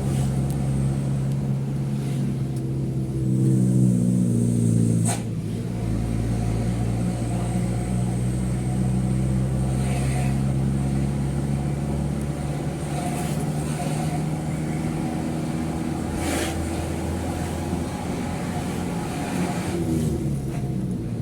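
Mitsubishi Fuso truck's diesel engine running under way, heard from inside the cab. Its note rises for a couple of seconds, then drops with a sharp click about five seconds in, with fainter clicks later.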